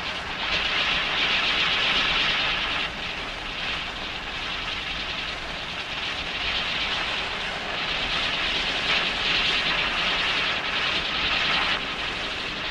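Steady, loud hiss of a gas cutting torch working on a steel fire door, swelling and easing slightly in strength.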